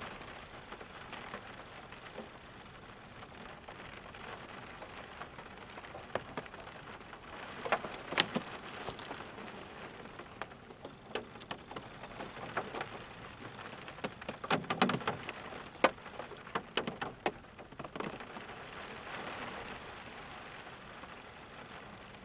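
Steady rain hiss with individual drops ticking sharply onto a hard surface, the drops heavier and more frequent about eight seconds in and again from about fourteen to eighteen seconds.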